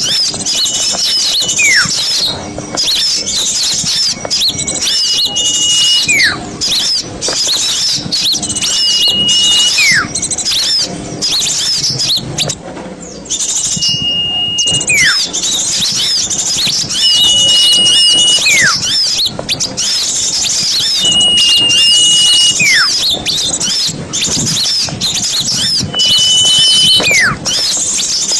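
Small-bird lure recording: dense, high, fast chattering and chirping of small birds, with a whistled call that repeats about every four seconds, each time a held note followed by a quick downward slide.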